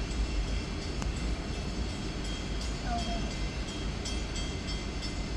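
Pan Am Railways freight train cars rolling past, a steady rumbling rush of wheels on rail, with one faint click about a second in.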